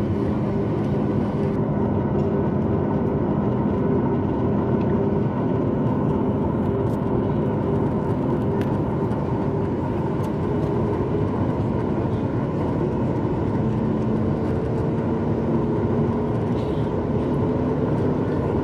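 Boeing 737 MAX 8's CFM LEAP-1B turbofan engines running under power, heard from inside the cabin as a steady roar with a low, even hum.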